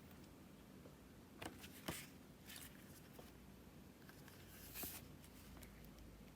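Near silence in a small room, with a few faint short clicks and rustles; the loudest comes about two seconds in.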